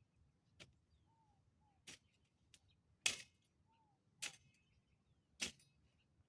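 A series of sharp snaps or chops, about one every second or so, the loudest a little after three seconds in, with a faint short falling whistle between some of them.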